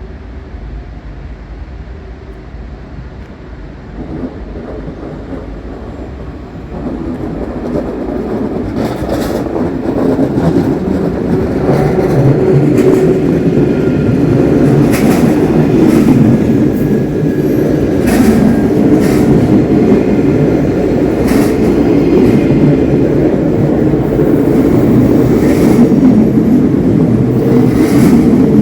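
A train running into the platform of a large station, its rumble building over the first ten seconds and then holding loud, with sharp clicks of wheels over rail joints and brief high squeals.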